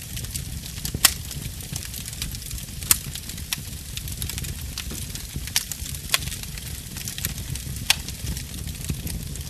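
Burning wood fire crackling, with a handful of sharp pops standing out (about a second in, near three seconds, twice around six seconds and near eight seconds) over a steady low rumble of the flames.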